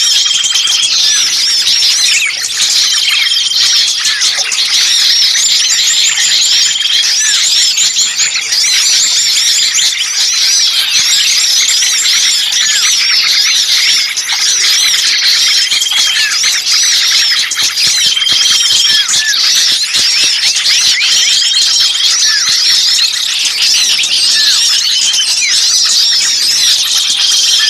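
A dense, busy chorus of many small songbirds chirping and trilling at once, with a short level whistled note that recurs every few seconds. It is a bird-trapping lure call of excited small birds ('burcil ribut kejepit'), played to draw in other birds.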